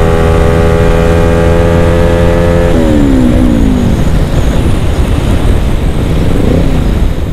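Yamaha R25 parallel-twin engine through a DX Generation Racing Undertail dual-silencer exhaust with no dB killer fitted, held at steady revs, then dropping in pitch about three seconds in and settling into a lower, rougher rumble.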